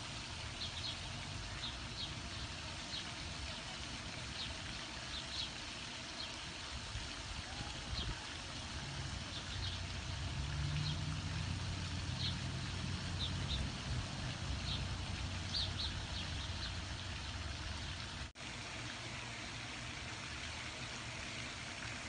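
Scattered short, high bird chirps over a steady low rumble that swells in the middle. There is a brief break about eighteen seconds in, after which the chirps stop and only a steady hiss and rumble remain.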